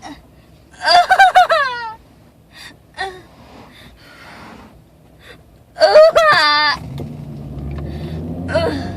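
A young woman in a sickle cell pain crisis crying out in pain: two loud, wavering sobbing wails about a second in and about six seconds in, with sharp gasping breaths between. A car engine's low rumble rises near the end.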